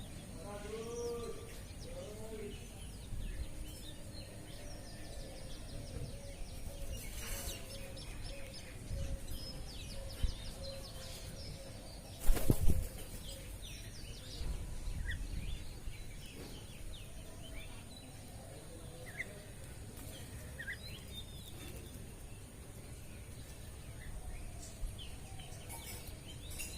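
Birds calling and chirping, with a run of repeated lower call notes through the first half and scattered short high chirps. A loud burst of noise lasting about half a second comes about twelve seconds in.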